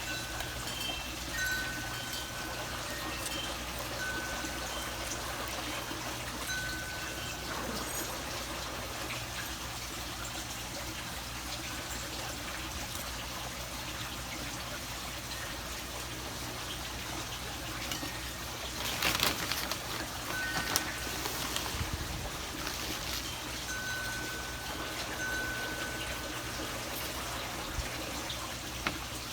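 Water trickling steadily, with clear wind-chime notes ringing out now and then. A brief louder rustle comes about two-thirds of the way through.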